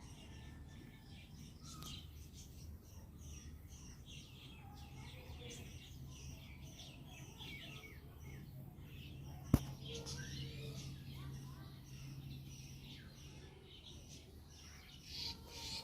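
Small birds chirping and twittering continually in the background over a low steady hum, with a single sharp click about ten seconds in.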